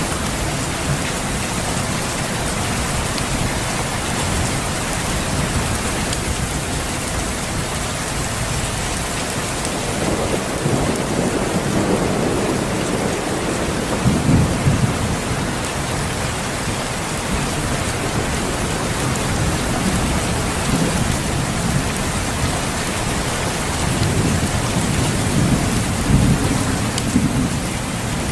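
Steady rain with rolls of distant thunder: one low rumble builds from about ten seconds in, another near the end.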